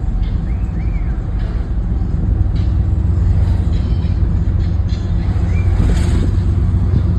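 Car engines running with a loud, steady low rumble that grows a little louder after about two seconds.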